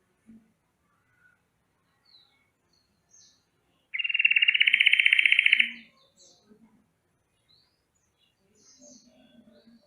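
Yellow-vented bulbul giving its rolling alarm call: one loud, fast rattling trill about four seconds in that lasts under two seconds. Faint short chirps from other birds come before and after it.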